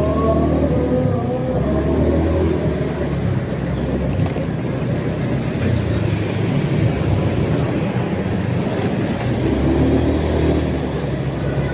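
A vehicle engine running on the road with a steady wash of road noise, its pitch rising and falling at the start and again about ten seconds in.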